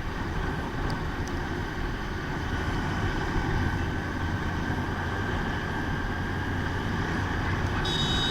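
Motorcycle riding along the road: steady engine and road noise. A brief high-pitched tone comes in near the end.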